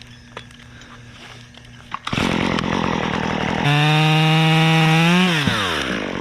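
Two-stroke chainsaw throttling up about two seconds in and running at high revs, then the throttle is released and the engine note falls away toward idle near the end. A few light clicks come before it.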